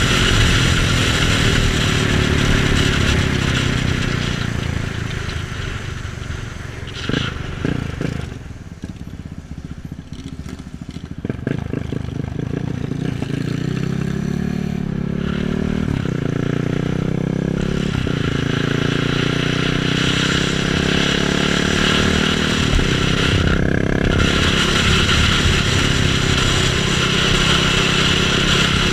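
KTM Duke 690's single-cylinder engine and wind rush while riding. The bike eases off to a low rumble a few seconds in, then pulls away from about twelve seconds with the engine pitch rising in steps through two gear changes. It then settles into steady cruising with loud wind noise.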